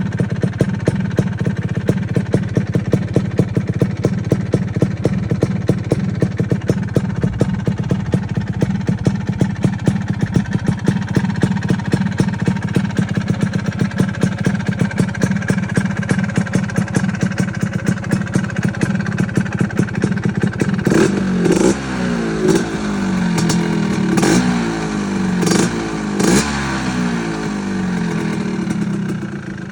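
Vespa VNB two-stroke scooter engine, with a 230 cc Malossi cylinder kit and a Posch Nessi expansion exhaust, idling steadily. In the last third it is revved in about five short throttle blips, then it settles back to idle.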